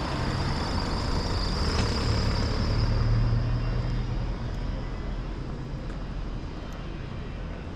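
A motor vehicle passing. Its low engine hum and road noise grow louder to about three seconds in, then fade away.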